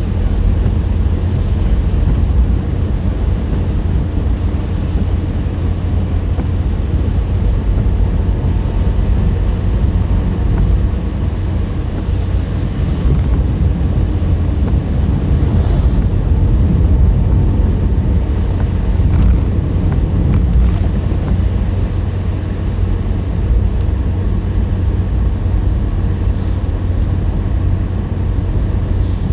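A car driving at a steady pace: a continuous low rumble of road and engine noise, with an even hiss above it.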